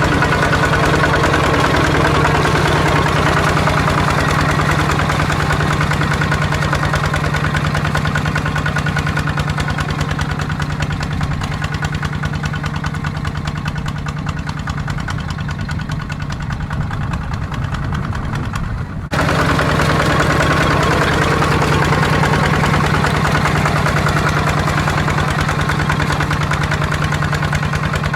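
ZT 155 tractor's single-cylinder diesel engine running steadily. Partway through it grows somewhat quieter, then it snaps back to full loudness about two-thirds of the way in.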